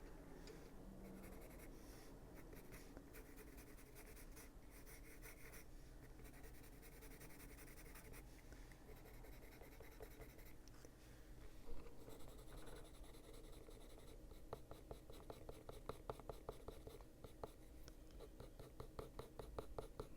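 Luminance coloured pencil scratching faintly over paper as colour is blended in with short back-and-forth strokes, the strokes becoming quicker and more distinct in the last several seconds.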